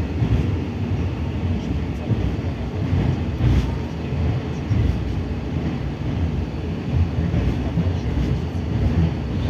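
Steady low rumble of a moving 81-740.1 "Rusich" metro train heard from inside the car: wheels and running gear on the track.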